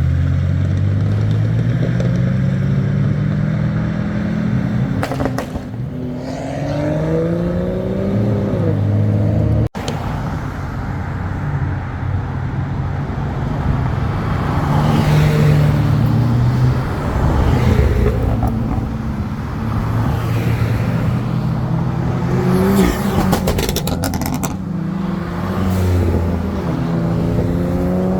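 Car engines running and being revved, their pitch climbing and falling in several sweeps. The sound cuts out for an instant about ten seconds in.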